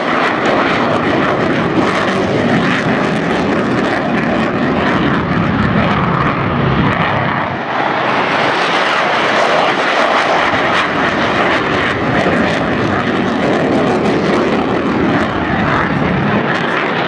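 Airplane engine noise from an aircraft flying past, loud and steady, with a pitch that falls around the middle as it passes.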